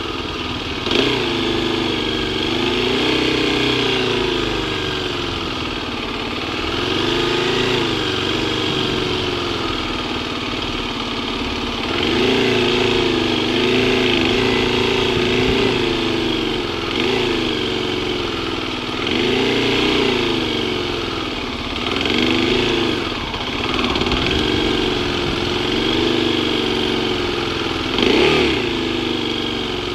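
Kawasaki KLX250 single-cylinder four-stroke engine running as the bike is ridden, its pitch rising and falling again and again as the throttle is opened and closed.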